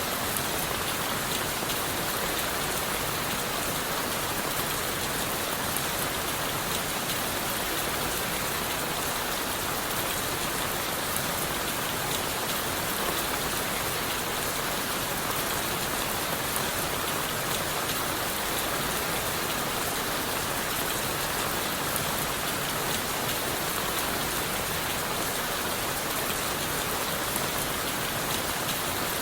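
Steady rain falling on leaves and wood: a dense, even hiss of rainfall with many small drop ticks, unchanging throughout.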